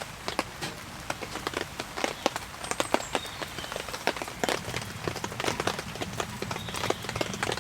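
Rain pattering on tent fabric, an irregular run of sharp drop ticks over a steady hiss.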